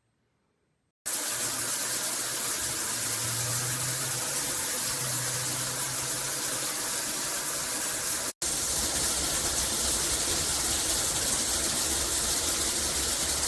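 Shower head running, water spraying steadily; it starts abruptly about a second in and drops out for an instant near the two-thirds mark before continuing.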